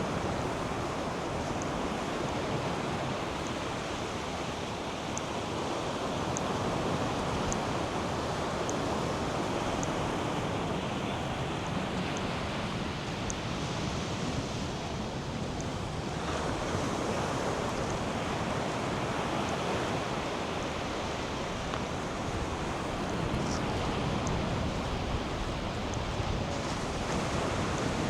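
North Sea surf breaking and washing steadily onto a sandy beach, rising and falling gently, with wind buffeting the microphone.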